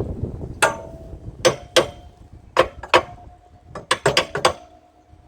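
Irregular sharp metallic clanks and taps of hand tools on the old pump's metal parts during disassembly, some leaving a short ring, with a quick run of clicks about four seconds in.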